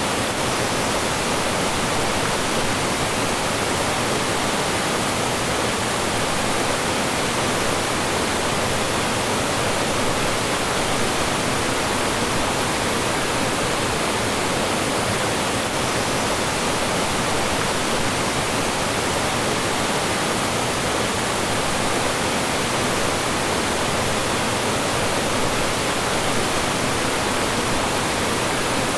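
Mountain stream rushing and splashing over rocks and small falls, a steady, even, full rush of water with no breaks.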